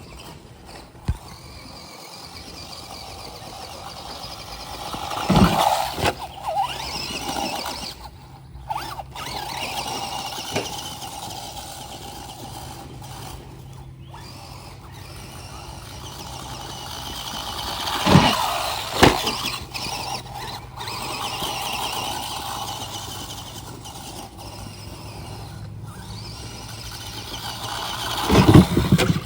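RC cars driving, their motors whining and rising and falling in pitch, with sharp knocks about five seconds in, twice around eighteen seconds, and near the end.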